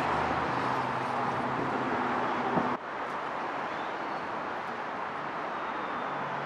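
Road traffic noise, with a steady engine hum under it that cuts off abruptly about three seconds in, leaving a steadier, slightly quieter traffic hiss.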